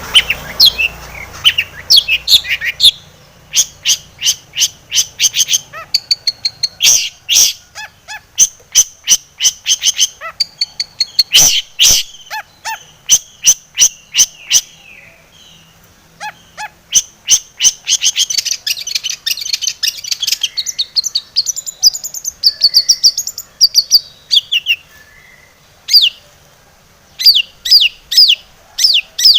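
Long-tailed shrike (cendet) singing hard: rapid runs of sharp, high chirps and clicking notes, repeated in quick series with a few short pauses. The song is packed with mimicked notes (full isian).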